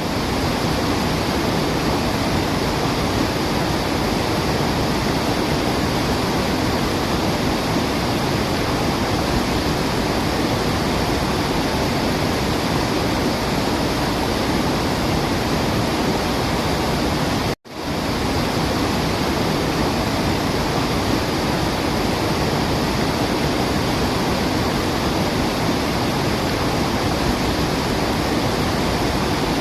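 Waterfall: a steady, even rush of falling water. It cuts out for an instant about two-thirds of the way through and swells straight back.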